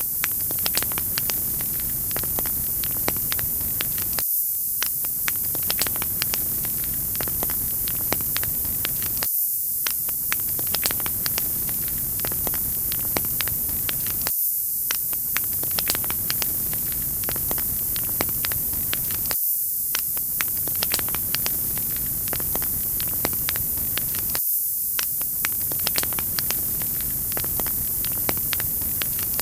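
Wood fire crackling in a fireplace: many small sharp pops over a steady hiss. Every five seconds or so the crackle drops out for a moment.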